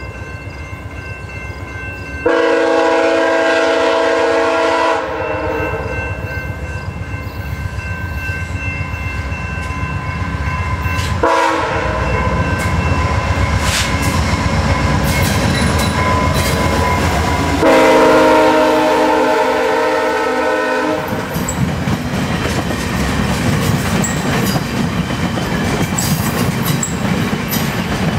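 VIA Rail GE P42DC diesel locomotive sounding its horn in long blasts, loud ones starting about 2, 11 and 18 seconds in, as the train approaches and runs through at about 62 mph. From about 21 seconds in, the passenger coaches pass with rushing rail noise and clattering wheels.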